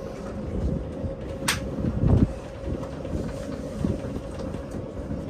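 Narrow-gauge electric train running along the track, heard from inside the carriage: a steady motor hum over a low rumble, with scattered knocks from the wheels on the rails. There is a sharp click about a second and a half in and a heavier thump just after two seconds.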